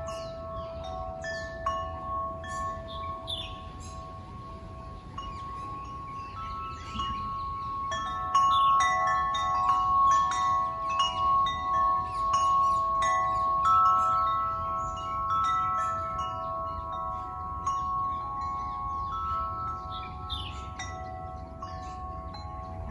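Wind chimes ringing, with several tones overlapping and sustaining as they are struck again and again. The strikes come thicker and louder for several seconds in the middle.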